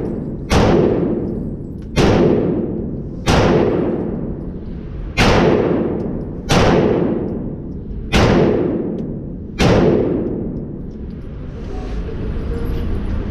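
Seven 9mm pistol shots from a Glock 19 Gen 4 in a carbine conversion kit, fired one at a time about a second and a half apart, each echoing away before the next.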